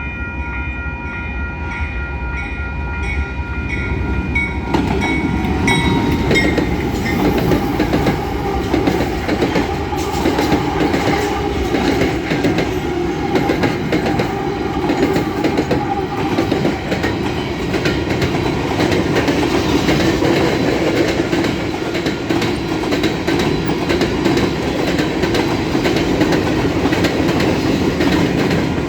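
Level-crossing bells ring in a steady rhythm. About five seconds in, a diesel-hauled freight train's locomotives arrive and drown them out, followed by the steady rumble and clickety-clack of freight cars rolling over the rails.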